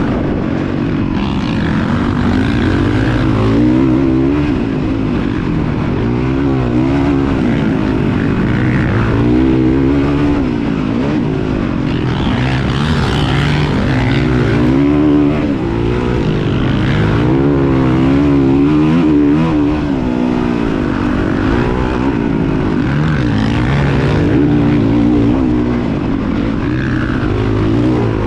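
Motocross bike engine running hard, its pitch rising and falling over and over as the throttle is opened and closed.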